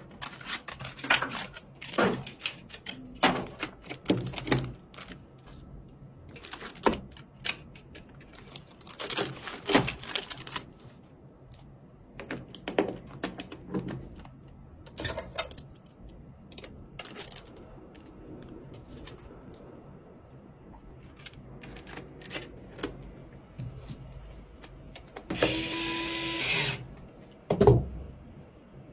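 Irregular clicks, clacks and light knocks of computer hardware being handled and fitted together. A brief buzz lasting just over a second comes near the end.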